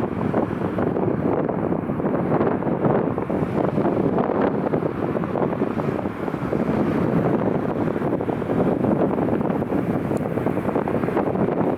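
Strong gusty wind buffeting the microphone, a steady rushing noise that rises and falls slightly with the gusts.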